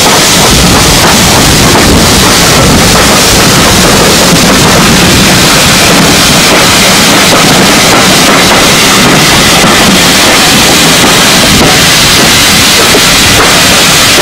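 Loud, steady rush of wind and running noise from an open window of a moving steam-hauled passenger train's carriage.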